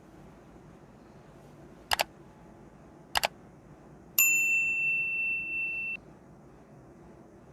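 Two quick double clicks about a second apart, then a bright metallic ding that rings for nearly two seconds and cuts off suddenly: sound effects on the anime's soundtrack.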